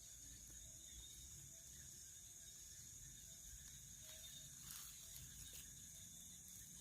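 Faint night ambience: insects trilling steadily at a high pitch, with a couple of soft clicks about two-thirds of the way in.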